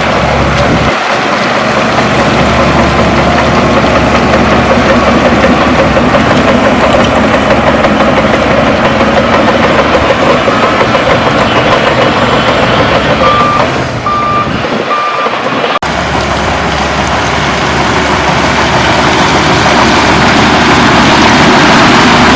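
Heavy diesel engine of a bulldozer working under load, running steadily and loudly. Near the middle come three short reversing-alarm beeps.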